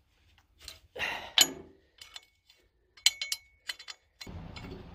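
Metal tools and engine parts clinking and knocking in short, scattered strikes as a bracket is worked loose, one strike ringing briefly. A steady low noise comes in suddenly near the end.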